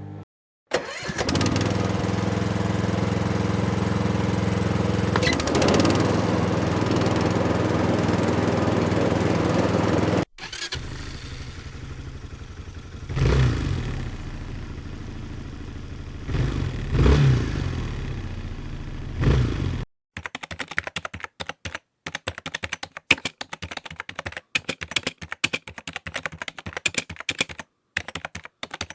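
Separate engine recordings cut one after another. First a steady-running engine whose pitch shifts about five seconds in. Then an idling engine blipped three times. Then a rapid, irregular clicking sound to the end.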